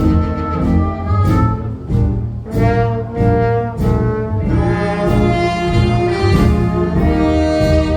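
Live jazz band playing: brass horns over a walking double bass, with drum hits keeping the beat.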